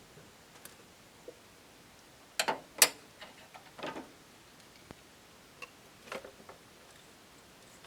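Hand tools knocking and clicking against engine parts during work on the valve cover: a few sharp clicks and knocks, the loudest about three seconds in, with smaller ones near four seconds and again about six seconds in.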